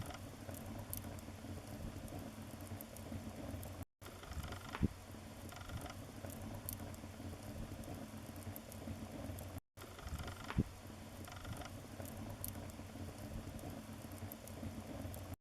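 Wood fire in a fireplace crackling steadily, with a sharp louder pop about every six seconds. The sound is a short loop: it cuts out for an instant about every six seconds where the loop repeats.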